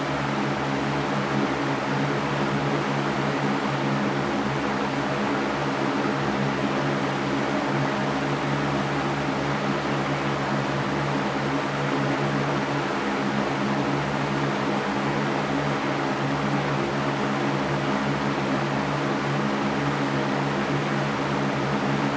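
Electric fan running steadily: an even whooshing hiss with a low motor hum beneath, unchanging throughout.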